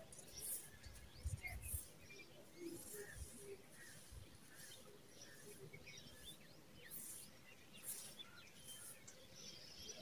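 Faint outdoor ambience with scattered distant bird chirps and soft, short rustles. There are a few soft low bumps between one and two seconds in.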